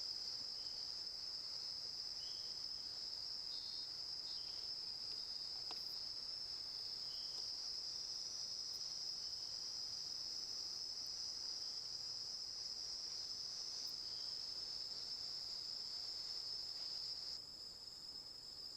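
Steady, high-pitched chorus of night-calling insects, with a few faint short chirps mixed in; it drops in level shortly before the end.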